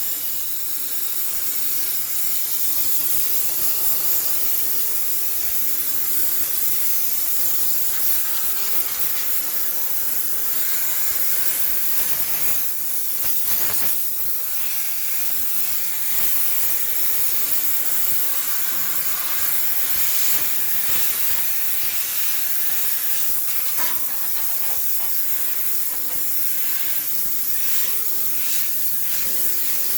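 High-pressure steam sterilizer jetting steam into a washing machine, giving a steady, continuous hiss.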